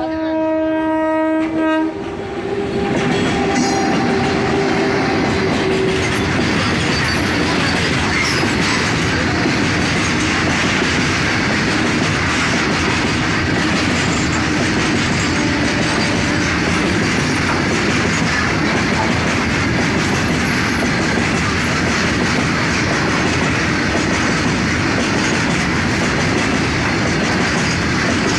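A train horn sounds for about two seconds at the start. Then comes the steady noise of a train running on the rails.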